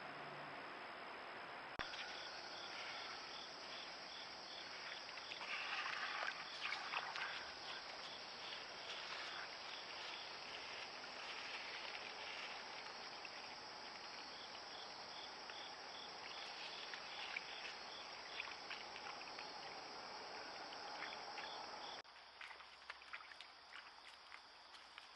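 A steady, high-pitched insect chorus of chirping and trilling, which starts abruptly about two seconds in and drops away abruptly near the end. A brief burst of louder noise comes about six seconds in.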